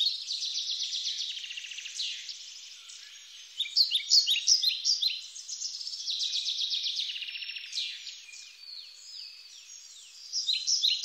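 Several songbirds singing together: rapid trills, repeated chirps and short falling notes that swell and fade in overlapping phrases.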